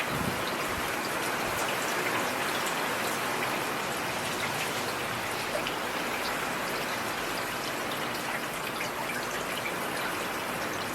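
Heavy rain falling steadily, an even hiss with scattered sharper drop impacts.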